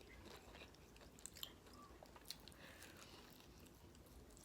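Faint chewing close to the microphone: a few soft mouth clicks and small crunches, over near silence.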